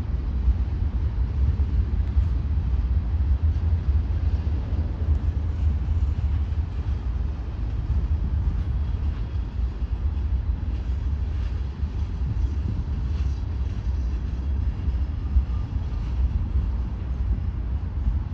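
Freight train's cars rolling past with a steady low rumble, near the tail end of the train.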